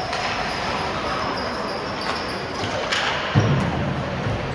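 Game sounds echoing in an ice hockey arena: a steady rink hum with a sharp clack at the start and another about three seconds in, followed by a heavy low thud.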